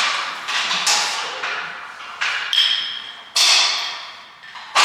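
A series of about six sharp knocks, each trailing off in a bright, rattling decay; one, about two and a half seconds in, carries a short metallic ring.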